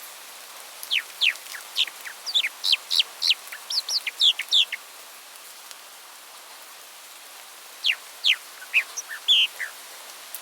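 A songbird singing two phrases of rapid, sharp, downward-sliding notes, the first about a second in and lasting nearly four seconds, the second shorter, near the end, over a steady background hiss.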